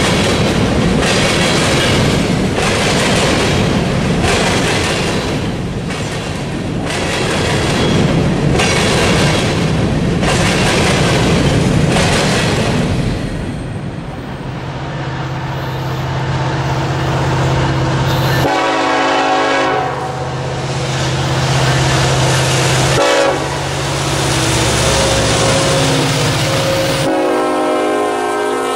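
Freight train of covered hopper cars rolling past, the wheels clattering over rail joints about once a second. Then Norfolk Southern diesel-electric locomotives (SD70ACe and ES44DC) run by with a steady engine drone, and the horn sounds in chords twice: once briefly about two-thirds of the way in, then a longer blast near the end.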